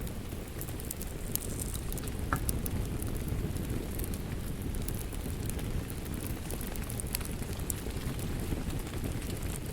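A wood fire crackling with frequent small sharp pops, over a steady bed of rain.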